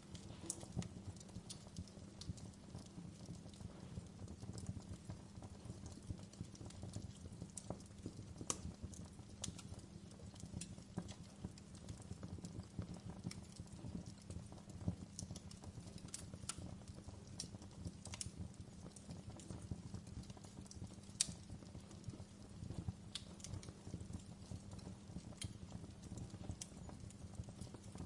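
Wood fire in a fireplace crackling: irregular sharp pops and snaps over a steady low rumble of the flames, with one louder pop about two-thirds of the way through.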